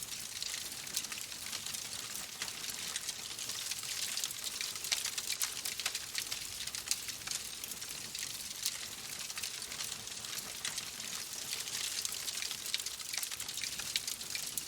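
Fireplace fire crackling: a dense, steady run of small sharp pops over a soft hiss.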